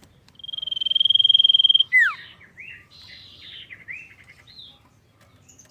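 Common iora (cipoh) singing: a long, slightly trilled whistle held on one pitch for about a second and a half, then a quick falling note and a run of short rising and falling chirps.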